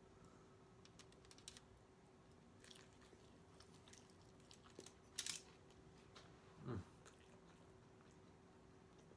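Quiet chewing of a soft steak taco: small wet mouth clicks, one louder click about five seconds in, and a short sound sliding down in pitch just before seven seconds.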